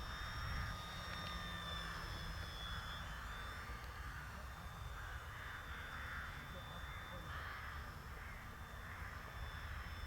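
Crows cawing repeatedly in loose runs, over a faint, steady high whine from the model plane's motor in flight and low wind rumble.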